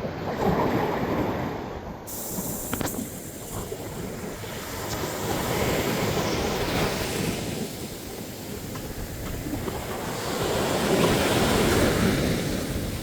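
Ocean surf breaking and washing up a sandy beach, swelling and easing in slow surges about every five seconds.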